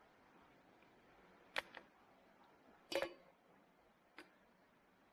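Two sharp knocks of metal kettles being handled, the louder one near the middle with a brief metallic ring, then a faint tap.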